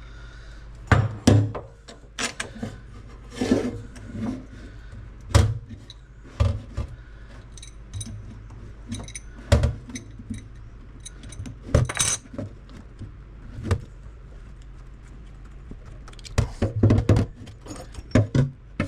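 Irregular metal clinks, knocks and rattles of a crescent wrench and old kitchen faucet parts being handled as the spout is pulled off and the spray hose disconnected, over a steady low hum.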